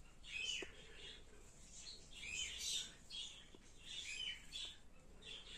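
Faint small birds chirping again and again in the background: short high chirps, each rising and falling, about one every half second to a second.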